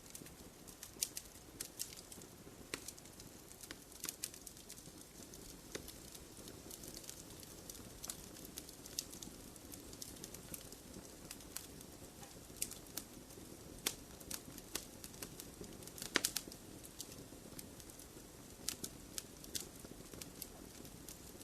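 Wood fire crackling in a fireplace: irregular sharp pops and snaps over a faint steady rush of flame, with a small cluster of louder pops about three-quarters of the way through.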